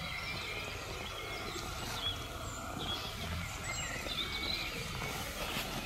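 Scattered short, high bird chirps and calls, a few quick notes that flick down in pitch, over a steady outdoor hiss.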